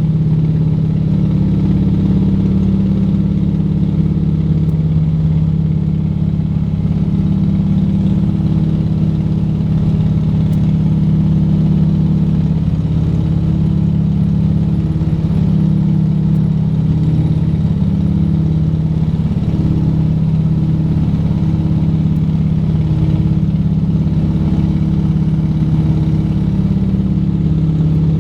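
Three nine-cylinder radial engines of a Junkers Ju 52 droning steadily in cruising flight, a loud low hum with a slow wavering beat as the engines run slightly out of step.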